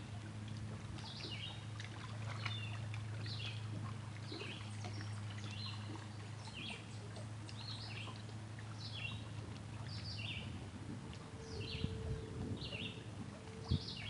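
A songbird repeating short, high, falling chirps about twice a second over a steady low hum. Two sharp knocks come near the end.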